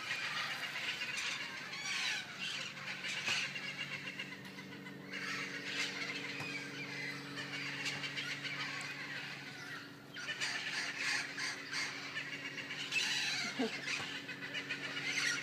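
A flock of feral parrots squawking and chattering without pause, with short lulls about five and ten seconds in. A steady low hum runs underneath from about four seconds in.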